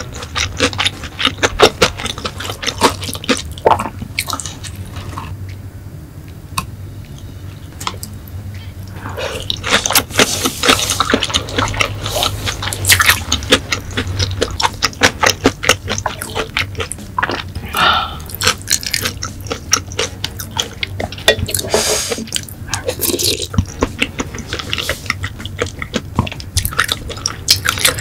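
Close-miked chewing and lip-smacking of food, a dense run of small wet clicks with a quieter pause a few seconds in.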